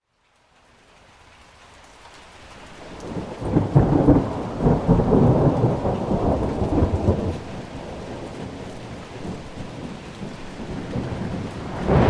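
Thunderstorm: steady rain hiss that rises out of silence at the start, with a long, deep roll of thunder from about three seconds in that lasts about four seconds. Another thunder rumble starts near the end.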